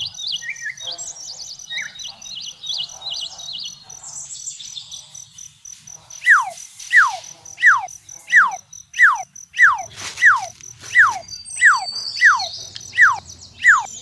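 Birds chirping over a steady, pulsing high insect trill. About six seconds in, a loud falling whistle call begins and repeats about a dozen times at an even pace, roughly one every 0.7 seconds.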